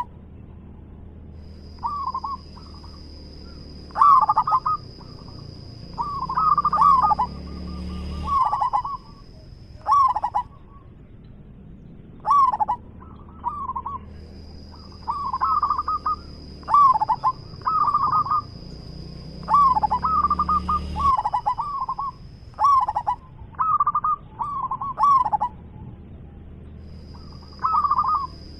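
Zebra dove (perkutut) cooing: a run of short, rolling, repeated coo phrases with brief gaps between clusters.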